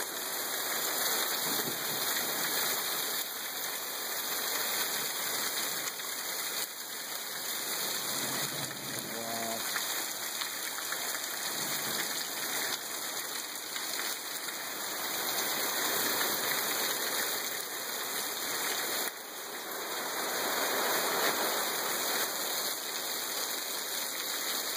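Heavy rain downpour falling steadily on trees, a wooden deck and rocky ground.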